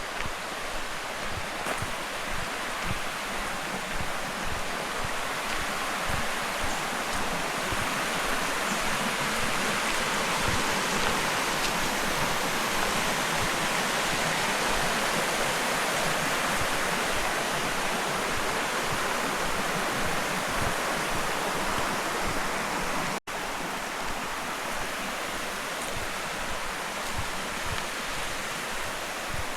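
Waterfall on a forest stream: a steady rush of falling water that grows louder over the first ten seconds or so. It cuts out for an instant about 23 seconds in, then carries on a little quieter.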